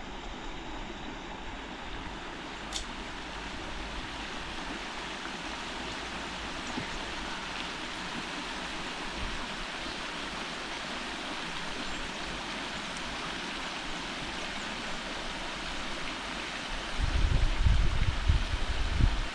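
Steady rush of flowing river water. A few seconds of low rumbling bumps come in near the end.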